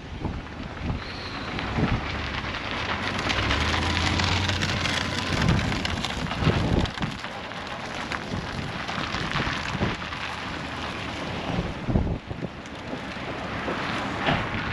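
Blizzard wind gusting across the microphone, with a dense, rain-like hiss that swells and eases and a few short knocks.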